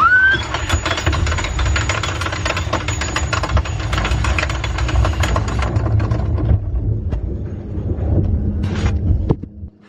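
Loud low rumble with dense, rapid rattling and clattering, like a vehicle or ride car in motion. It cuts off sharply near the end.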